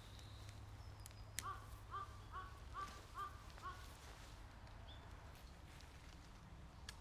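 A crow cawing in a run of about six short calls, roughly two a second, with a sharp click just before the first call.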